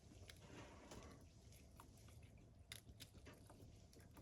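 Faint, sparse crackles and ticks from a campfire burning, with a soft hiss in the first second.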